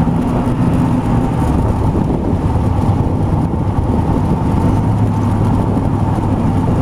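The 350 V8 of a homemade jet boat running steadily under way, a loud low drone with a hum that firms up a little about five seconds in.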